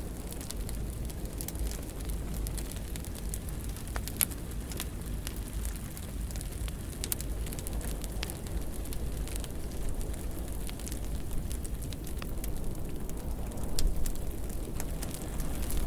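Fireplace fire crackling: a steady low rumble of flames with scattered sharp pops, a louder pop about four seconds in and a small cluster near the end.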